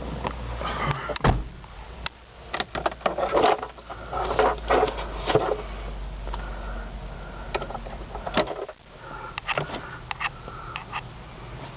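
Irregular clicks, knocks and rustling of things being handled in a small enclosed space, over a steady low rumble.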